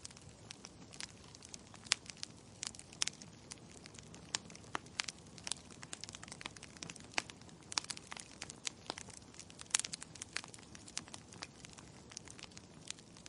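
Wood fire burning in a fireplace: irregular sharp crackles and pops from the burning logs, several a second, over a low steady rush of flame.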